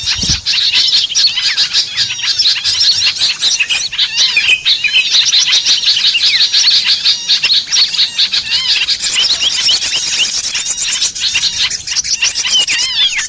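Dense, continuous chorus of many small birds chirping rapidly with overlapping calls, a bird-lure recording meant to draw small birds in.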